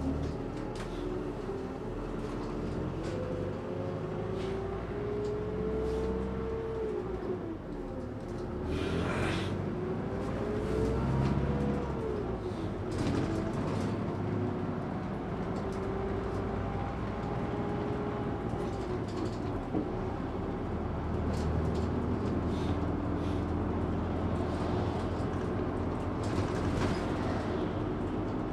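Train running on the rails: a steady low rumble with a motor tone that rises and falls in pitch, and a short hiss about nine seconds in.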